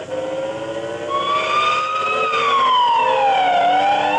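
Recorded fire engine siren sound effect from a Jolly Roger fire engine kiddie ride, wailing. It starts about a second in, then rises, falls slowly and begins rising again, over a lower steady tone.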